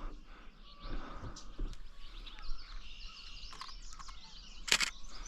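Birds singing and calling in wetland woodland, a few short chirps and whistled notes, with one sharp click near the end.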